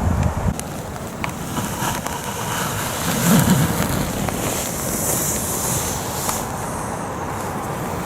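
Rain falling on a tarp overhead: a steady, even hiss with a few faint clicks.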